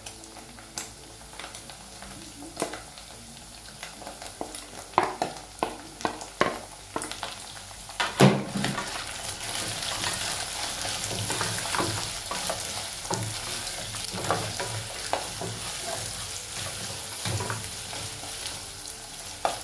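Sliced onion and beef frying and sizzling in a pot while being stirred with a wooden spoon. The spoon knocks against the pot now and then, loudest about eight seconds in, and the sizzling grows louder from about halfway through.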